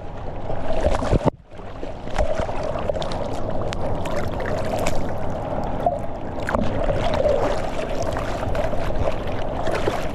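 Rushing river whitewater around a whitewater kayak, with short splashes from paddle strokes. The sound drops out briefly about a second in.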